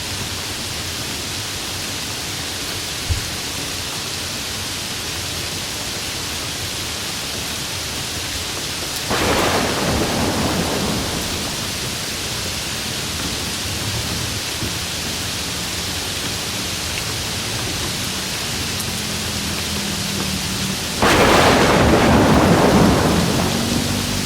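Steady heavy rain falling on open fields, with two claps of thunder, one about nine seconds in and a louder one near the end, each breaking suddenly and rumbling away over a couple of seconds.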